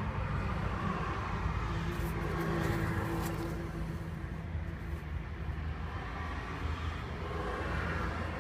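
A vehicle engine running steadily, a low hum with a faint higher tone rising above it for a few seconds in the middle.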